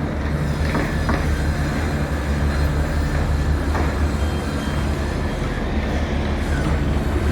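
Steady low rumble of city background noise, with a few faint knocks and a brief faint high whine in the middle.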